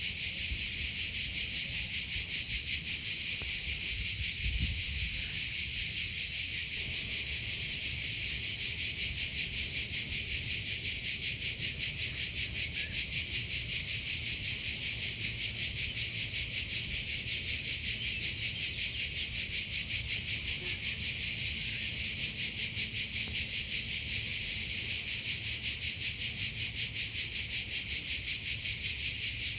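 Cricket chirping continuously, a fast, even pulsing trill that never pauses.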